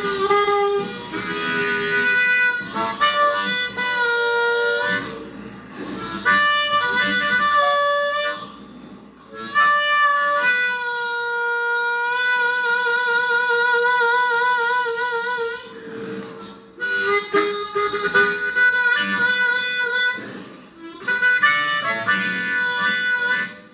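Blues harmonica solo, bending and warbling through phrases of chords and single notes, with a long held note wavering in vibrato about halfway through.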